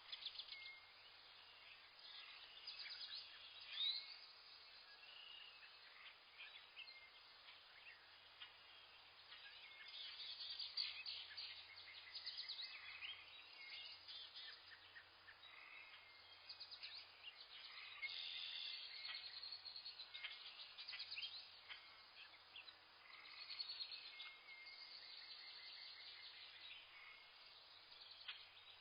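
A faint chorus of small birds chirping, with several bursts of fast, rapidly repeated trill notes among the high chirps, over a steady low background hiss.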